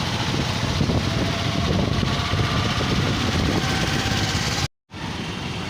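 Motorcycle engine running with road and wind noise while riding, a steady low rumble. The sound cuts out completely for a moment about three-quarters of the way through.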